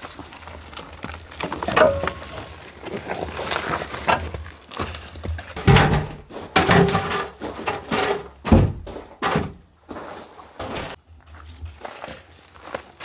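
A series of irregular dull thuds and knocks, several of them heavy, with scraping and rustling between them, as of objects being handled and set down.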